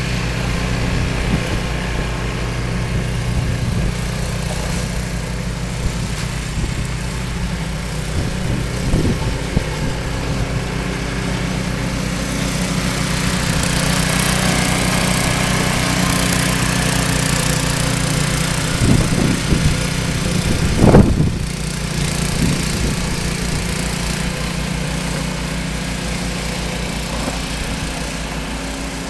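Small gasoline engine of a walk-behind snowblower running steadily. Around two-thirds of the way through, a few louder knocks stand out over it.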